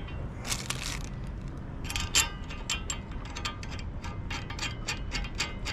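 Rapid metallic clicking, several clicks a second, from hand work on galvanized anchor swivel hardware, after a brief scraping sound at the start.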